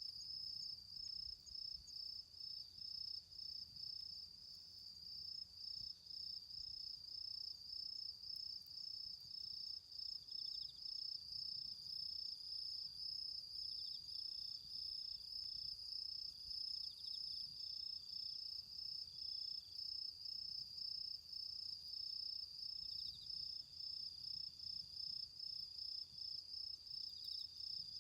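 Crickets chirping in a steady, even rhythm, about two pulses a second, with a second insect trilling more faintly and at a lower pitch in short spells now and then.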